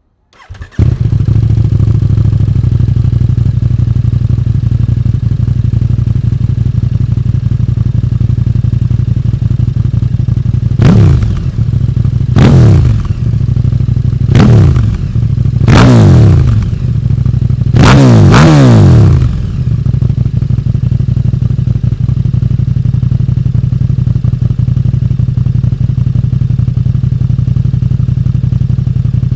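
KTM 1290 Super Duke R's V-twin starting through an Akrapovic Evo 2 titanium full exhaust with the baffle fitted, catching about a second in and settling to a steady idle. About halfway through come about five quick throttle blips, each rev rising and falling back, before it idles steadily again.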